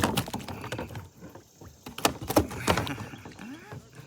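Sharp knocks and clatter of gear against a kayak, with a cluster of three loud knocks about two seconds in, then a faint short tone that rises and falls near the end.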